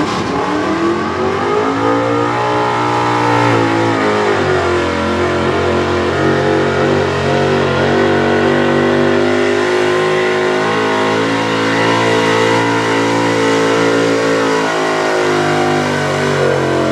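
Small-block 4x4 pulling truck's engine run at full throttle on a sled pull: the revs climb over the first few seconds, stay high and fairly steady with small wavers, then fall away near the end as the pull finishes.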